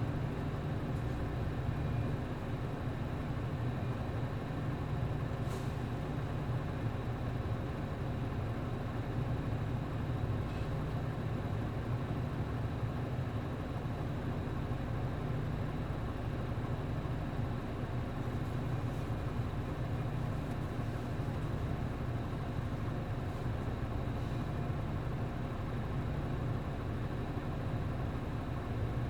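A route bus's MD92TJ diesel engine running steadily, heard from inside the bus, a constant low drone with no gear changes or revving.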